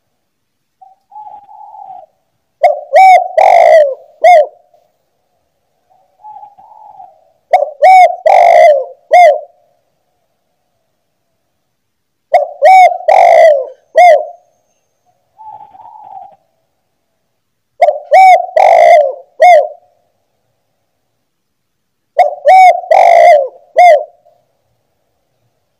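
Spotted dove (tekukur) repeating its cooing song: five phrases of three or four rounded coos, about one phrase every five seconds. Several phrases are preceded by a softer lead-in note.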